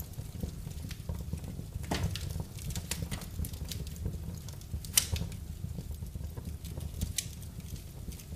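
Wood fire burning in a fireplace: irregular crackles and pops over a low rumble of flames, with one sharp loud pop about five seconds in.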